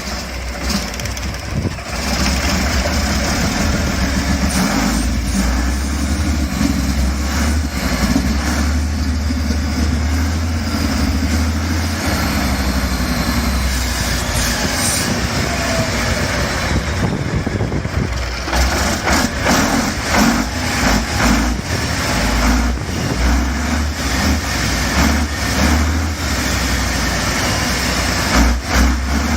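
Dorman V12 diesel engine starting and running. It builds up over the first couple of seconds, runs steadily, then runs unevenly with repeated surges over the last ten seconds.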